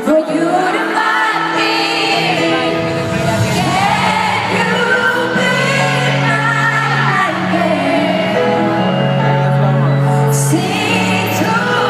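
Live concert performance of a pop ballad: a woman singing held, melodic lines over the band, recorded from the audience.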